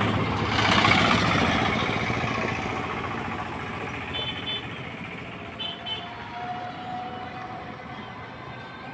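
A road vehicle passing close by: a broad rush of noise that swells to a peak about a second in and then slowly fades away.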